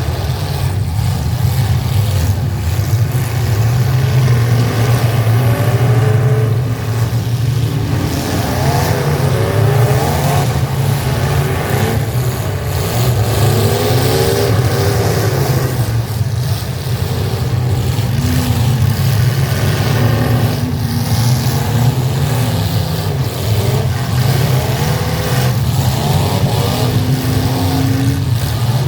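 Demolition-derby full-size pickup truck engines running loud and revving over and over, several at once, their pitch rising and falling above a steady low rumble.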